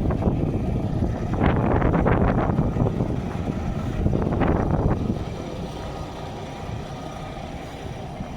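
Wind buffeting the camera's microphone as a heavy rumbling noise, easing about five seconds in.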